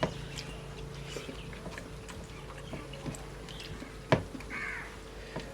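Scattered light clicks and taps of someone eating a meal off a plate, the sharpest about four seconds in. A crow caws once shortly after.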